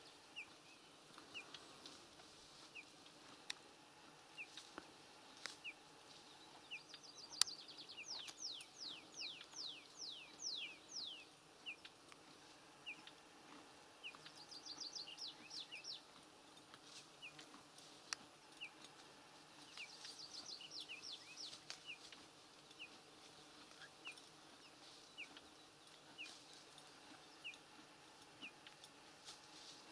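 Faint birdsong: a short high chirp repeated about once a second, with three runs of quick falling notes. A few sharp clicks stand out now and then.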